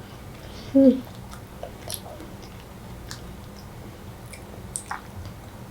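A child chewing a soft mochi rice cake, with small scattered mouth clicks and a brief hummed sound about a second in.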